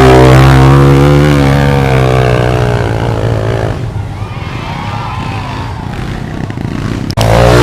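Trail motorcycle engine running hard at high revs under load on a steep climb, its pitch wavering a little, then dropping away after about four seconds. Near the end an abrupt cut brings in another bike's engine running hard.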